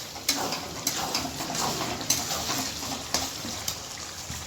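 A metal spoon or spatula clinks against a cooking pan about twice a second while food is being stirred.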